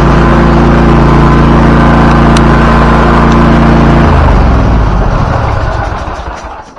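Zero-turn lawnmower engine running steadily and loud at close range, then shut off about four seconds in and winding down to a stop.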